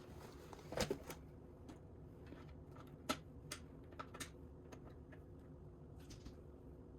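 Plastic Lego pieces being handled and fitted, giving a scattered series of light, sharp clicks and taps at irregular intervals.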